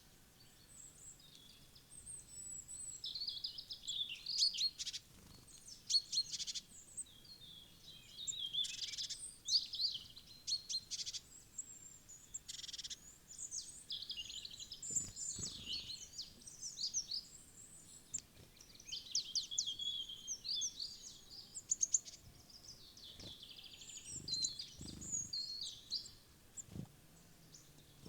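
Small woodland songbirds chirping and calling, many short high calls overlapping throughout, with a few short sharp clicks among them.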